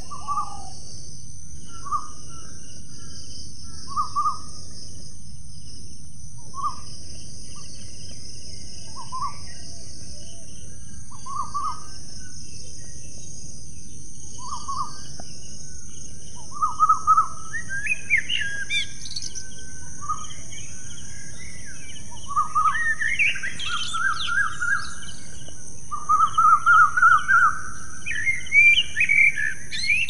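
Birds calling: a short call repeated about every two seconds, then from about halfway a busier, louder mix of chirps and song phrases, over a steady high-pitched hiss.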